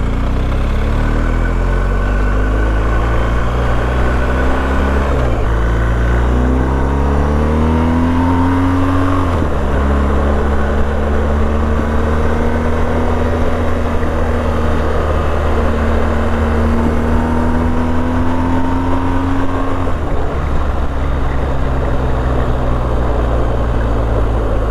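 BMW R1250GS boxer-twin engine accelerating through the gears: its pitch rises, drops sharply at an upshift about five seconds in, rises again, then drops once more and holds nearly steady at cruising speed, with another drop in pitch about twenty seconds in.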